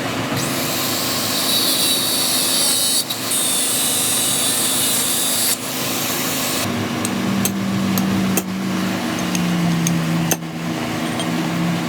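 A power tool running in a workshop: a loud high-pitched hiss that breaks off briefly around three seconds in and stops at about five and a half seconds, followed by a steadier low hum with scattered sharp clicks and taps.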